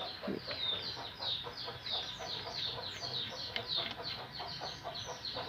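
Birds chirping continuously in the background: many short, high, falling notes, about three or four a second.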